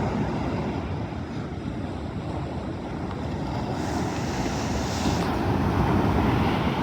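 Sea surf: waves breaking and washing ashore, with wind rumbling on the microphone. A wave breaks about four seconds in, its hiss swelling and then fading.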